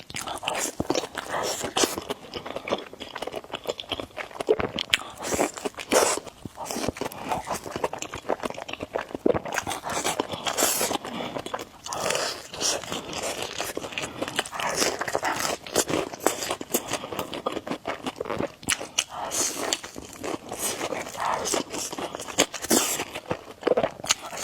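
Close-miked eating of spicy noodles: slurping, chewing and smacking, with many quick irregular wet clicks and short noisy bursts.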